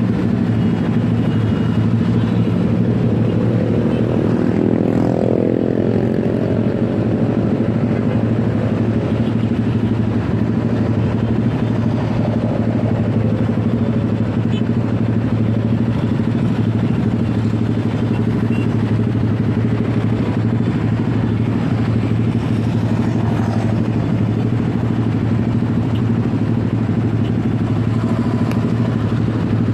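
Motorcycle engine running steadily while riding through traffic, over a constant rush of road noise.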